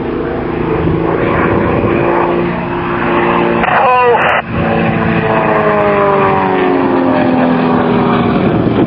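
Engines of two large-scale model Extra 300 aerobatic aircraft running at high power in a synchronized display, several engine tones at once, with the pitch falling as the planes pass by in the second half.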